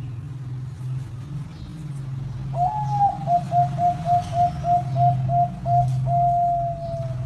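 Zebra dove (perkutut) singing its cooing song: a rising opening note, a quick even run of about ten short coos, then a long drawn-out final note that sags slightly in pitch. A low steady hum runs underneath.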